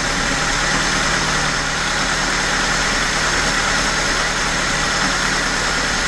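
VAZ 2104's carburetted four-cylinder engine idling steadily just after starting, at a raised idle of about 1,150 rpm.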